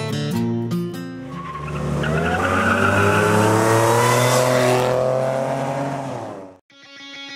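Car engine accelerating hard, its pitch rising steadily for about four seconds, then cut off abruptly.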